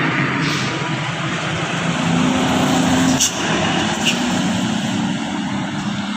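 Truck engine running with a steady drone; its note drops slightly about three seconds in, and a few short sharp sounds cut in, about half a second, three and four seconds in.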